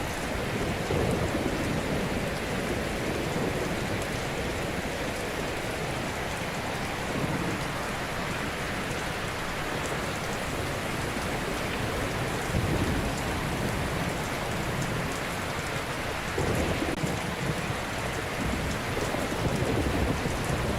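Ocean waves breaking and washing onto a shore: a steady surf hiss with deeper surges as waves roll in several times, around a second in, midway and toward the end.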